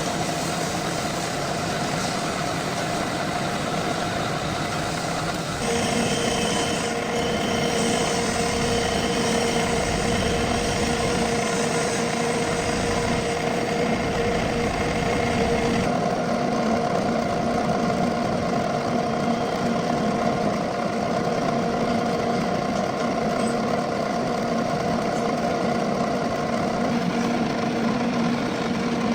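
Metal lathe running, a steady machine hum with several held tones. A second, higher whine joins about six seconds in and stops around sixteen seconds.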